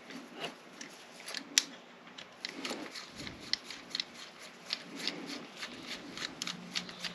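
Small clicks and rattles of a deadbolt lock being handled and worked at a bench, with one sharper click about one and a half seconds in.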